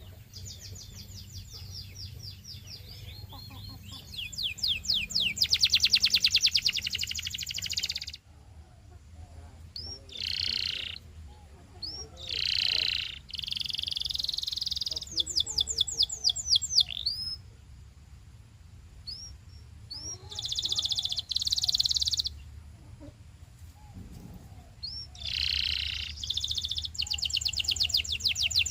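Canary singing: phrases of fast trills, each a rapid run of repeated high notes, broken by short pauses, with a faint steady low hum underneath.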